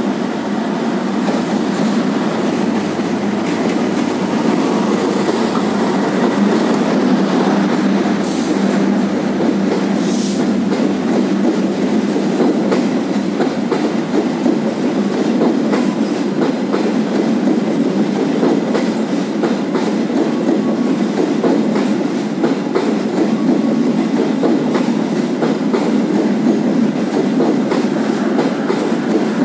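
A long passenger train's carriages rolling past close by: a loud, steady rumble with wheels clattering over the rail joints and a couple of brief high squeals about 8 and 10 seconds in.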